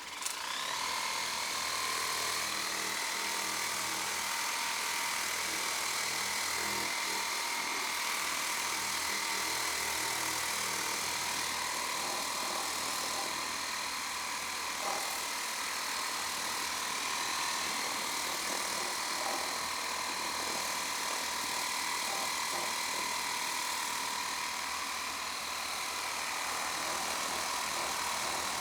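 Lippert Power Pro Max battery-powered portable pressure washer switching on and running, a steady high-pitched pump whine over the hiss of the water spray.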